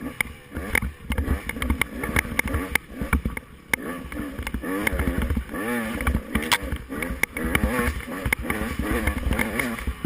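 Off-road motorcycle engine revving up and down over and over as the bike is ridden on a race course, with frequent sharp knocks and clatter.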